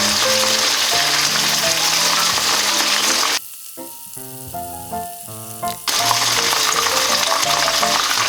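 Chicken karaage pieces frying in hot oil, a loud dense sizzle. It cuts off abruptly about three seconds in, leaving only background music, and comes back about six seconds in.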